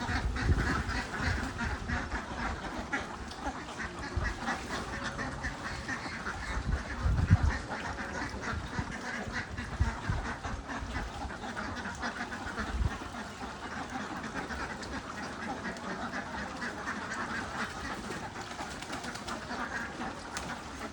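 Domestic ducks quacking and chattering continuously, many short calls overlapping. A few dull low thuds are mixed in, the loudest about seven seconds in.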